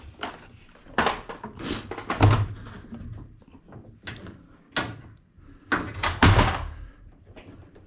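A series of knocks and clunks as washing machine parts are handled, with two heavier thumps about two and six seconds in.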